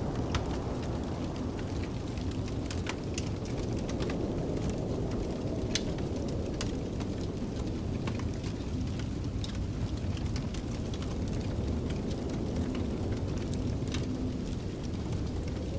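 Wood fire crackling with scattered sharp pops over the steady low rush of a snowstorm wind, which whistles faintly now and then.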